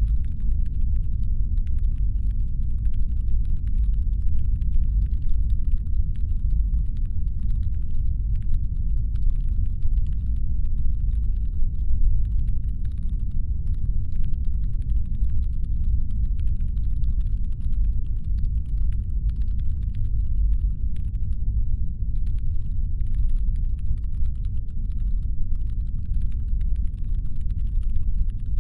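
Deep, steady brown-noise rumble standing in for a spaceship's engine hum, with faint, irregular clicking over it throughout.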